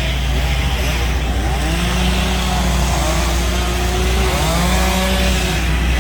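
Chainsaw revving up and down as it carves wood, its pitch dipping and climbing again several times, over a steady low drone.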